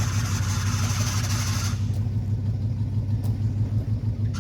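1985 Chevrolet K10 pickup's engine running at low speed as the truck is eased into position, a steady pulsing rumble. A hiss lies over it for the first couple of seconds and then stops.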